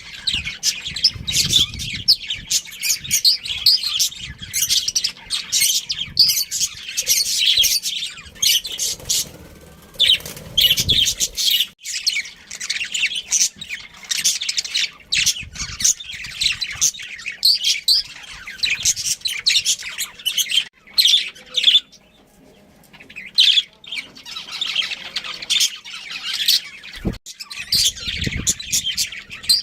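Budgerigars chattering and chirping continuously in quick, warbling calls, with a short lull about three quarters of the way through. Some low knocks and rumble sound underneath during the first third and again near the end.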